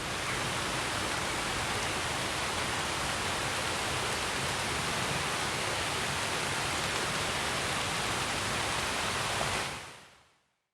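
Steady rushing water noise, even and unbroken, fading out about ten seconds in.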